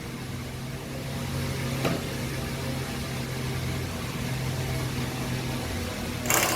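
A machine's motor running with a steady low hum, with a light knock about two seconds in and a short, loud, hissing burst near the end.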